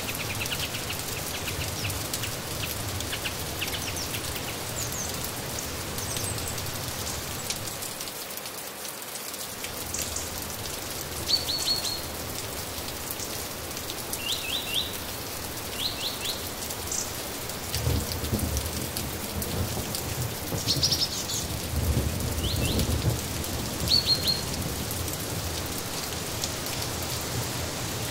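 Steady rain falling, with a songbird giving short chirps in quick groups of two or three throughout the second half. Low rumbles come and go twice in the second half.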